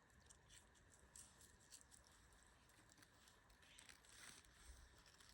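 Near silence, with faint scattered ticks and a soft rustle a little after four seconds in.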